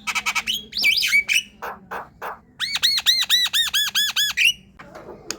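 Javan myna singing: a burst of harsh chattering and clicks, then a run of about ten quick repeated whistled notes, then a few scattered clicks.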